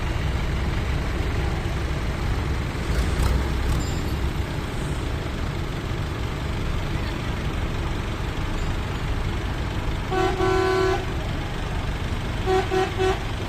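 A vehicle horn sounds one blast of about a second roughly ten seconds in, then three short toots near the end, over a steady low engine rumble.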